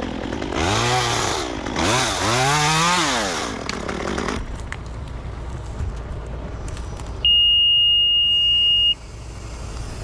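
Chainsaw revving up and falling back twice. Near the end comes a steady high-pitched beep lasting under two seconds, louder than the saw.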